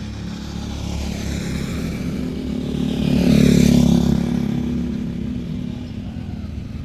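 A small-engined vehicle passing close by: the engine sound rises to its loudest about halfway through, fades away, then cuts off abruptly.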